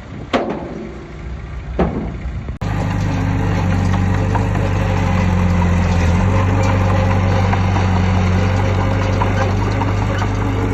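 Heavy construction machine's diesel engine running steadily with a deep, even drone, starting abruptly about two and a half seconds in. Before it, wind on the microphone with two short sweeping sounds.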